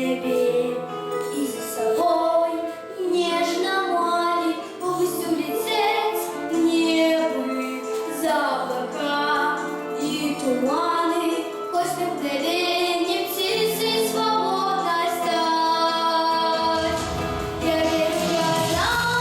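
Solo female voice singing a melodic pop song in Russian over instrumental backing with sustained chords; a deeper bass line comes in near the end.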